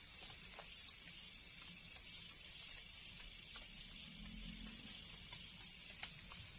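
Faint forest ambience: a steady high-pitched hiss, like a night insect chorus, with scattered small clicks and ticks.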